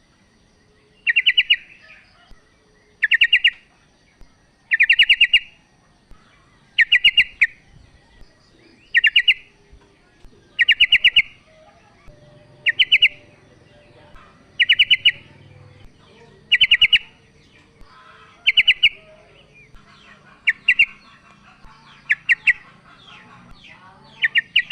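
Female yellow-vented bulbul calling: a short burst of quick notes repeated about every two seconds, a dozen or so times.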